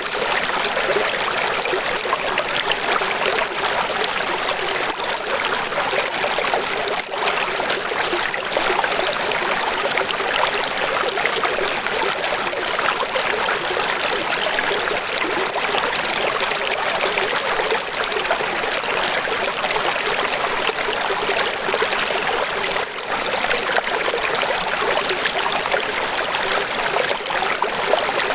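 Steady running water, a stream or small waterfall flowing continuously with a fine trickling texture and little bass.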